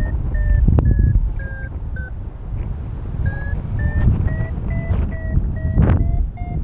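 Paragliding variometer beeping about twice a second, a short pause about two seconds in, then beeping again with its pitch slowly rising: the climb tone of a glider going up in lift. Wind rushes on the microphone underneath.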